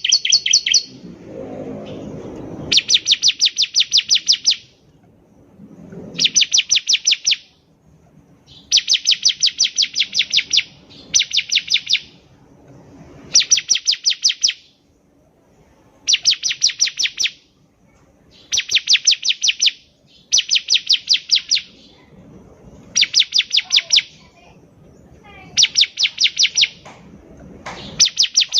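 Bar-winged prinia (ciblek) singing: repeated bursts of rapid, high, evenly spaced notes, each burst lasting one to two seconds, coming about every two to three seconds.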